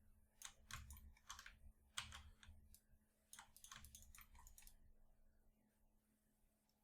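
Faint, irregular clicking of a computer keyboard and mouse, stopping about five seconds in.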